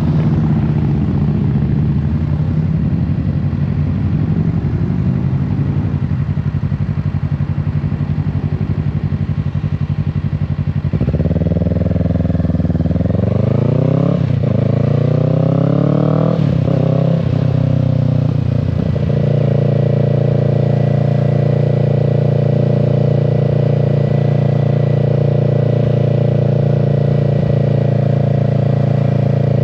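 2025 Kawasaki Z650's parallel-twin engine running steadily at low revs, then, about a third of the way in, accelerating through several gears, its pitch climbing and dropping at each shift, before settling into a steady cruise.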